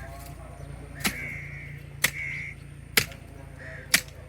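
Axe chopping into a tree branch: four sharp blows about a second apart.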